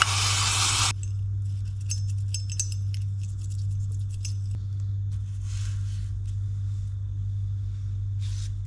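Small metal reel drag washers clinking and rattling while they are cleaned, with a loud hissing spray burst in the first second and two shorter hisses later. A steady low hum runs underneath.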